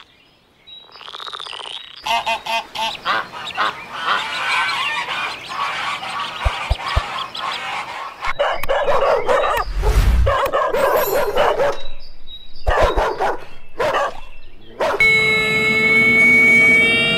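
A string of different animal calls following one another, dense and pitched, with breaks between them. Near the end a steady held tone with several overtones comes in.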